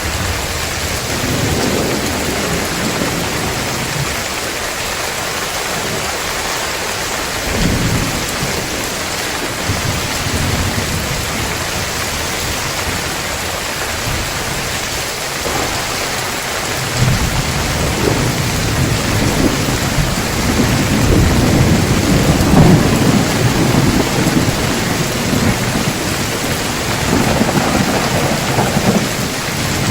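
Heavy rain falling steadily with rolling thunder. Short low rumbles come early on and around a quarter of the way in, then a long rumble builds from about halfway and is loudest in the last third.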